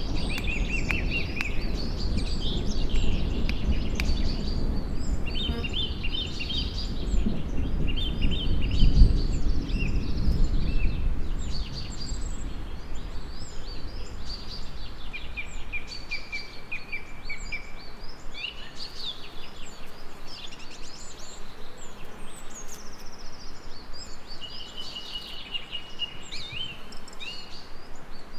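Several songbirds singing, with short chirps and trills overlapping throughout, over a low rumble that swells about nine seconds in and dies away before the halfway point.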